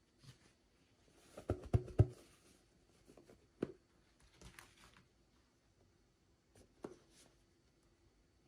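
Hands handling small plastic toys and packaging: a quick cluster of sharp clicks and taps about one and a half to two seconds in, single clicks later, and faint rustling in between.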